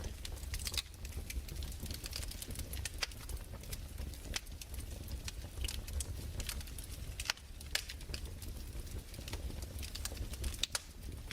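Wood fire crackling: irregular pops and snaps, several a second at times, over a steady low rumble.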